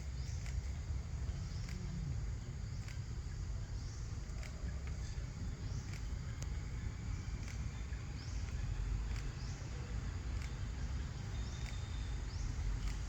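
Outdoor ambience: a steady low rumble with scattered sharp clicks and a few faint high chirps.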